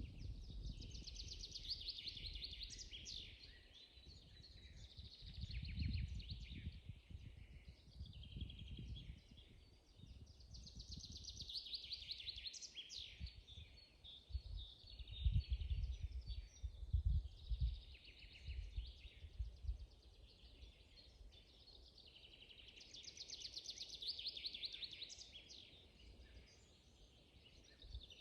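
Songbirds singing, one of them repeating a fast trilled phrase about every ten seconds, with quieter calls between. Irregular low rumbles come and go underneath, loudest a little past the middle.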